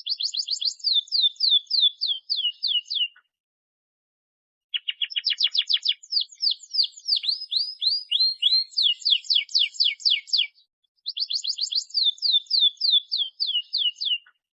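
Domestic canary singing in three phrases of rapid, repeated high chirps, most notes sliding downward, with short breaks between phrases.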